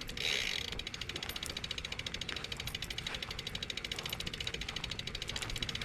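Bicycle freewheel clicking as the bike coasts: a rapid, even ticking of the rear hub's pawls, with a brief hiss just after the start.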